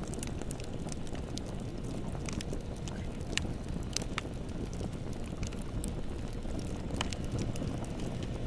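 Bonfire burning: a steady low rumble of flames with scattered sharp crackles and pops.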